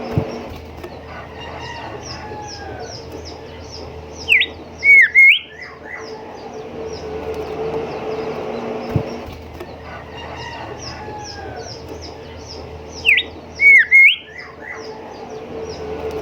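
Golden whistler singing: two loud phrases about nine seconds apart, each a few clear whistled notes ending in a sharp upswept whip note. Under them run a steady low hum and a rapid faint high ticking.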